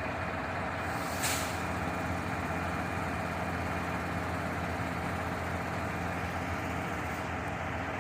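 Delivery truck engine running steadily, with a short sharp hiss of air about a second in.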